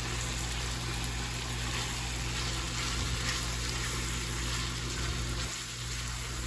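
Ground beef frying in a pan with freshly added diced onions and serrano pepper: a steady sizzling hiss over a low, even hum.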